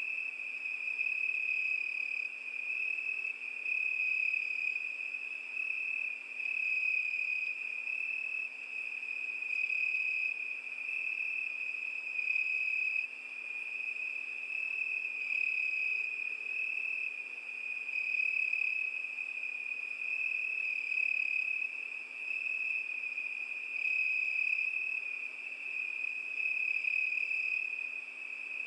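Crickets chirping in a steady, high-pitched trill that swells and fades about every two seconds.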